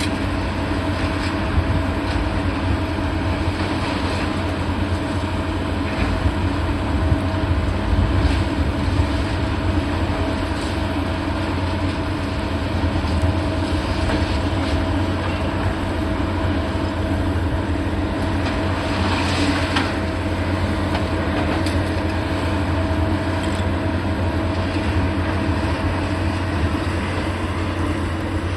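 Heavy diesel demolition machinery running steadily with a deep rumble, with a few scattered knocks and clanks.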